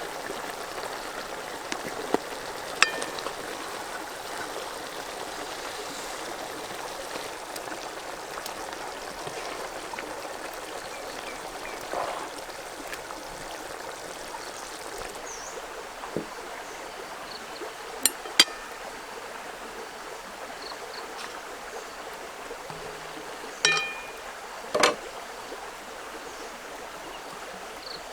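Steady rush of flowing water, with a handful of sharp clinks and knocks scattered through it, the loudest coming as two pairs in the last third.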